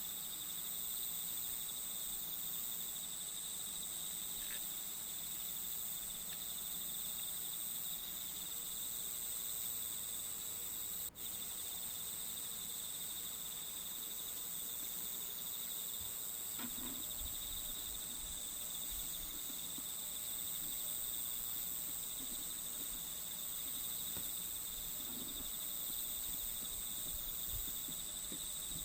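Steady chorus of shrilling insects, like crickets, holding high even tones, with a few faint low bumps in the second half.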